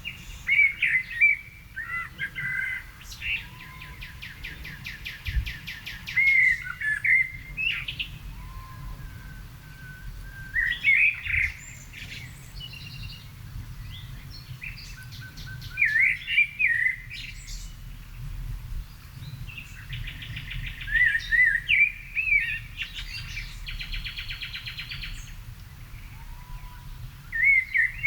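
Songbirds singing: short warbled phrases repeated every few seconds, with fast rattling trills from another bird in between. A faint low rumble runs underneath.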